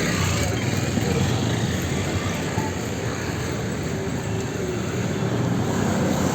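Busy street traffic: a steady, dense rumble of vehicle engines and tyres.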